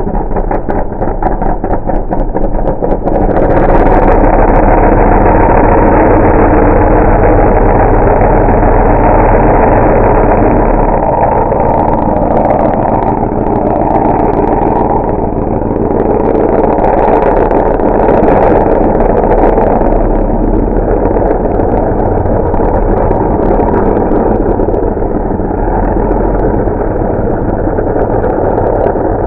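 Ford F-150 open-mod mud race truck's 460 big-block V8 running hard and very loud. It swells to full volume a few seconds in, holds steady for several seconds, then rises and falls as the throttle changes.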